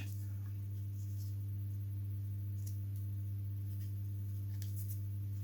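Steady low electrical hum with a few evenly spaced overtones, unchanging in level, with a few faint light ticks.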